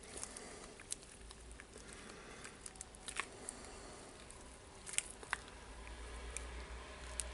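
Faint scattered clicks and taps of small parts being handled and fitted into a DeWalt D25003 rotary hammer during reassembly.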